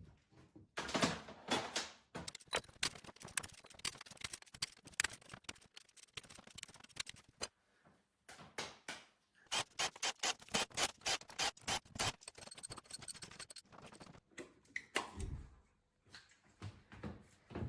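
Hand tools clicking and scraping on engine metal in fast, irregular runs, pausing briefly twice.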